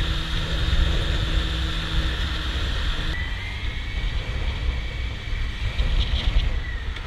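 Motorcycle riding along with heavy wind rumble on the microphone and a steady engine drone.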